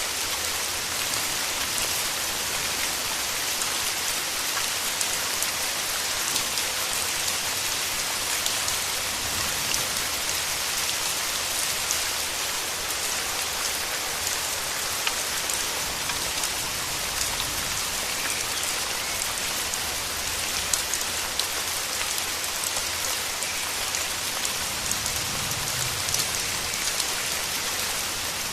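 Steady rain falling in a forest, an even hiss dotted with many separate drop ticks.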